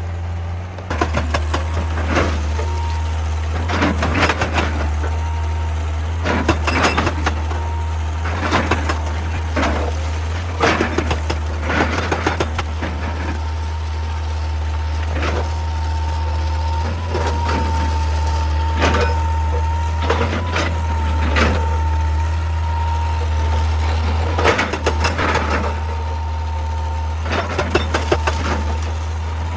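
Excavator's diesel engine running steadily under load, with repeated knocks, clanks and scrapes every second or two as the machine works rock. A steady high whine sits over the engine.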